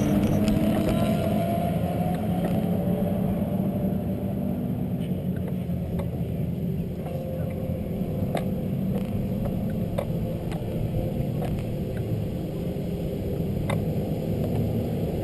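Superbike engine coming down from high revs, then a steady low rumble with a dozen or so scattered sharp clicks.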